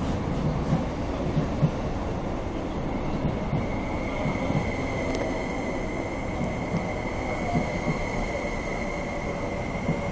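MTR SP-1900 electric multiple unit rolling slowly past along a station platform: a steady rumble of wheels on rail with light knocks. A steady high whine comes in about four seconds in and holds.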